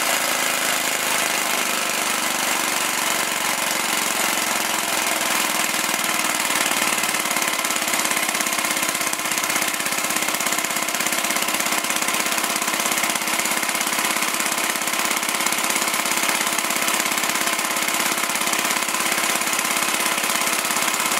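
Small glass-cylinder demonstration combustion engine running steadily, a rapid, even rattle of firing strokes. A lower hum fades out over the first few seconds.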